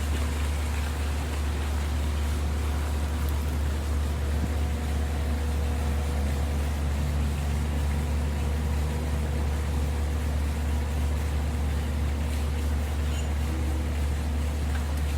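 Water fountain running: a steady wash of falling water over a constant low hum.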